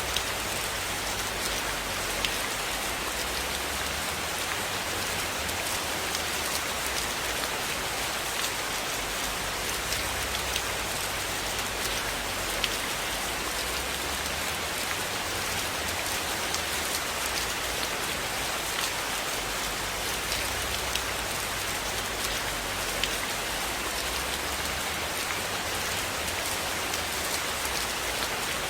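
Steady rain falling on a cabin roof, an even hiss with scattered sharp ticks; faint crackles of a wood fire in a fireplace sit under it.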